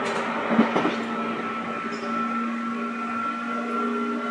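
Running sound inside a 205 series electric train: a steady electrical whine and hum with a brief clatter about half a second in.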